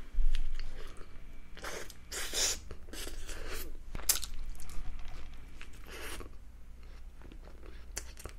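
A person biting into and chewing a Lotteria beef Folder Burger up close to a condenser microphone, with short bite and chew sounds coming in clusters. A low thump just at the start is the loudest sound.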